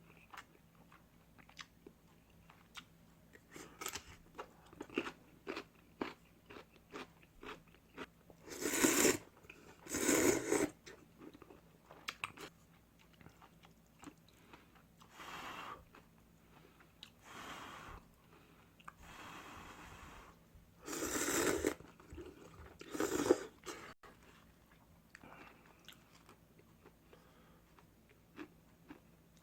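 Close-up eating sounds: crunchy chewing and biting as a ramyun meal is eaten, with many small crackly clicks. There are five louder noisy sounds, each about a second long, during the meal.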